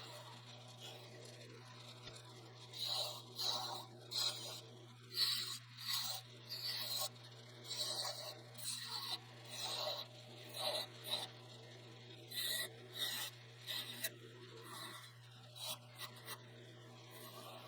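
Wood lathe running with a steady low hum while a tool or abrasive is worked against the spinning wood in short scraping strokes, about two a second through the middle stretch.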